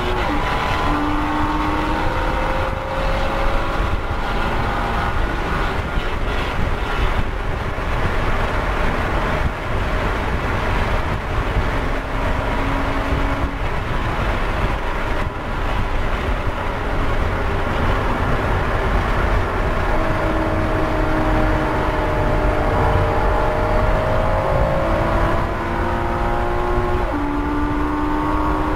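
Porsche Cayman S flat-six engine heard from inside the cabin, running hard on track. Its pitch climbs as it revs through the gears and drops at each gear change, with loud wind and tyre noise underneath.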